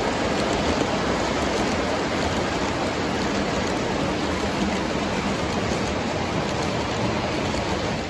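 O gauge model train running steadily on three-rail track, the wheels and motor making an even rolling rumble.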